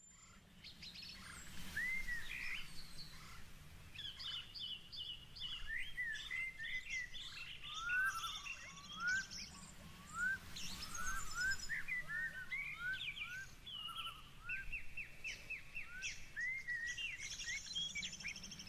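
Several birds singing and chirping: a string of short rising whistles repeated about twice a second, mixed with rapid trills and higher twitters, over a faint steady hum. The sound fades in over the first couple of seconds.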